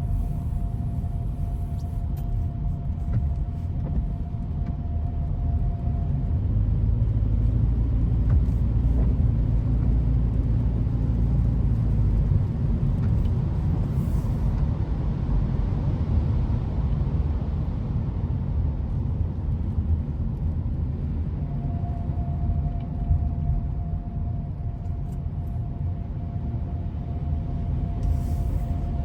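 Low, steady road rumble of a car driving, which grows louder for several seconds near the middle. A faint steady whine can be heard at the beginning and again late on.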